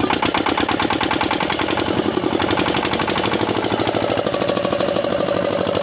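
Rebuilt old Kirloskar diesel engine running steadily with a rapid, even knocking beat.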